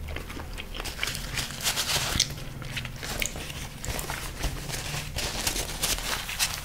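Close-miked chewing of a sauced chicken wing: a steady run of wet mouth clicks and smacks. A paper napkin rustles against the mouth near the end.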